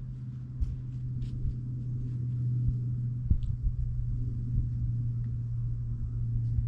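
Motors and propellers of a 6-inch FPV quadcopter, the iFlight Nazgul Evoque F6D, humming as one steady low tone that slowly grows louder.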